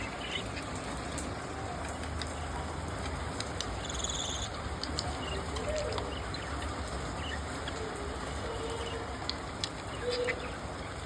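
Budgerigars chirping: short high chirps and a held whistle about four seconds in, over a steady background hiss, with a few lower wavering calls.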